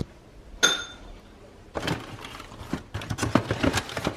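Breakfast tableware giving one sharp, ringing clink, then a run of small clatters and rattles as things are handled at the table.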